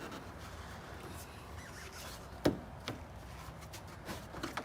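A plastic car bumper cover being pressed onto its mounting brackets: one sharp knock about halfway through, a lighter knock just after, and a few faint taps and rubs near the end.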